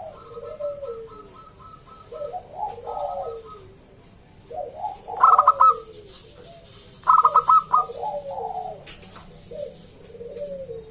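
Zebra dove (perkutut) singing: repeated phrases of soft cooing notes, each opening with a quick run of staccato notes, about every two to three seconds. The staccato runs are loudest about 5 and 7 seconds in.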